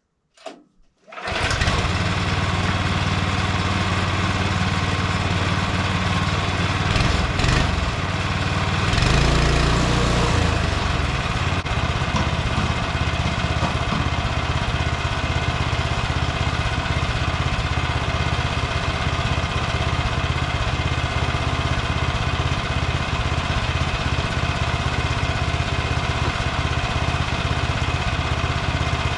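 Small gasoline engine of a Frontier OS23 bandsaw mill starting after a click and then running steadily. It rises and shifts in pitch briefly about nine seconds in.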